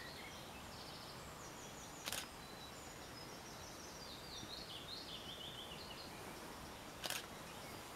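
A songbird singing short repeated phrases over a steady outdoor hiss, with two sharp clicks, about two seconds in and near the end.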